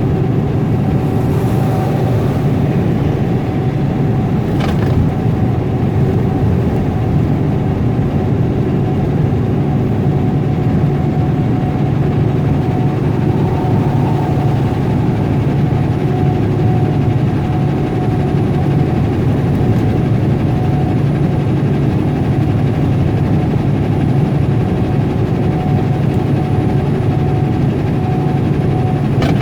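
Semi-truck's diesel engine running steadily with road noise, heard from inside the cab, with a steady low hum. A brief tick about five seconds in.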